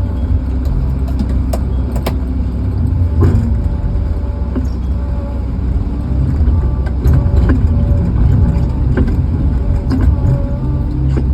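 Steady low rumble of a truck engine running, heard inside the cab, with scattered sharp taps through it.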